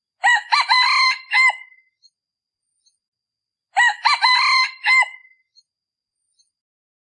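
Male decoy rooster crowing twice, each crow a short run of syllables lasting about a second and a half. The call is played to lure wild junglefowl.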